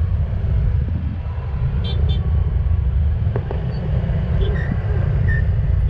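Car road noise: a steady low rumble of a vehicle moving in traffic, with a couple of faint clicks about two seconds in.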